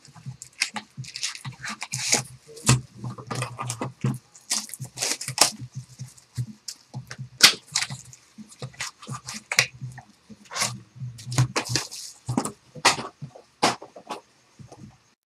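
Hobby boxes of basketball cards being opened and their packs taken out by hand: irregular cardboard clicks and taps, with short rustles of the wrapped packs.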